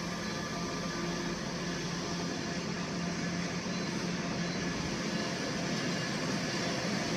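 Steady machinery drone with a low hum held at one pitch and a faint high whine above it, unchanging throughout.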